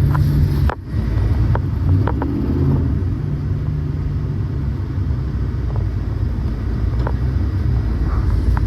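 Pickup truck engine running as it drives, a steady low rumble, with a few faint clicks.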